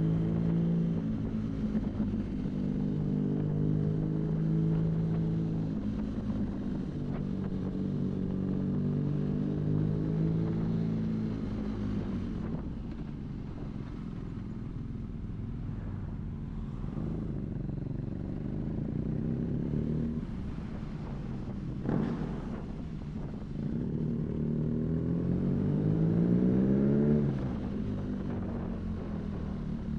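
BMW R nineT's boxer-twin engine running through an Arrow aftermarket exhaust under way: a steady drone at cruising revs, easing off midway, with a short sharp click a little over two-thirds through, then revs climbing for a few seconds and dropping off sharply near the end.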